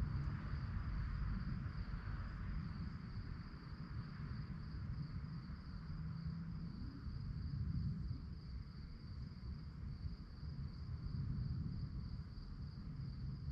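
Crickets chirping in a steady, high-pitched, evenly pulsing chorus over a continuous low rumble.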